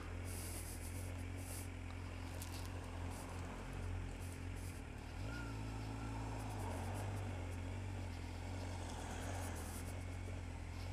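Kawasaki Z750's inline-four engine running steadily at low revs in crawling traffic. Its pitch steps up a little about five seconds in.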